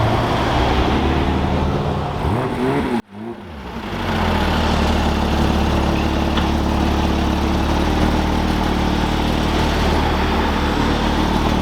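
A car engine running steadily close by, its note flat and unchanging, with an abrupt break about three seconds in before the same kind of steady engine sound resumes.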